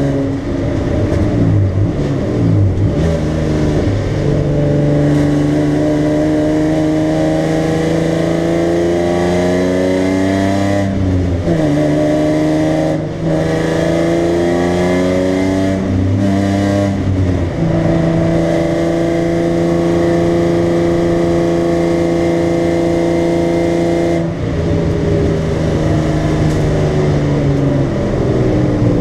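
BMW 325i straight-six engine under hard track driving, heard from inside the stripped cabin. The engine note climbs in pitch under throttle and drops sharply several times at gear changes and lifts, with a long steady stretch at high revs in the second half.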